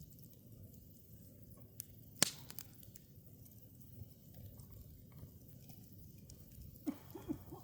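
Faint night ambience: a low steady rumble with scattered small clicks and taps, one sharp click about two seconds in, and three short low chirping calls in quick succession near the end.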